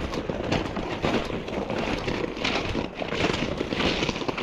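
Hard, out-of-breath breathing from pushing a dirtbike that is out of gas, in repeated swells, over wind noise on the microphone.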